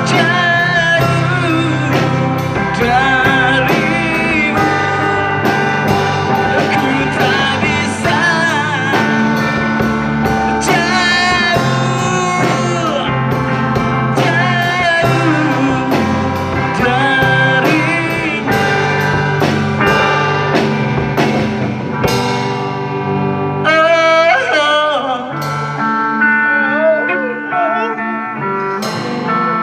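Live rock band playing an instrumental break: an electric guitar lead with bent, wavering notes over drums and bass. The drums drop out about three-quarters of the way through, and the playing thins out toward the end of the song.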